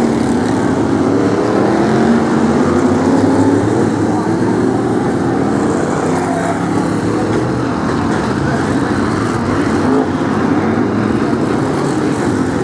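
Several BriSCA F1 stock cars' V8 engines running together, many overlapping engine notes rising and falling as the cars rev and lift off.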